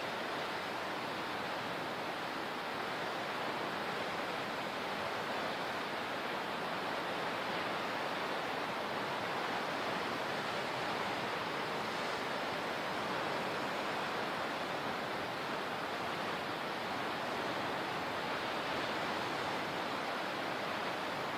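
Steady rushing water, an even wash of noise with no distinct swells or breaks.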